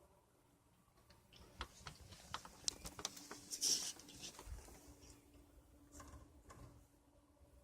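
Faint, irregular clicks and taps, with a short rustle about three and a half seconds in.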